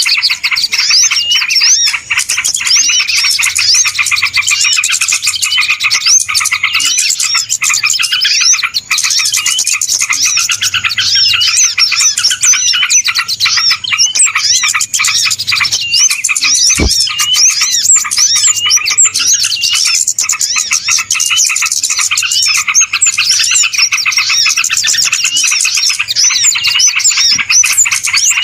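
Bird-lure call for trapping small birds: a dense, steady chorus of many small birds chirping and twittering at once, with no pause. A single sharp click sounds partway through.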